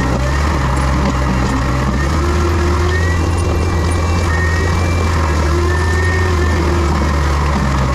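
Heavy diesel land-clearing machine running steadily under load, with a faint high whine that wavers up and down in pitch.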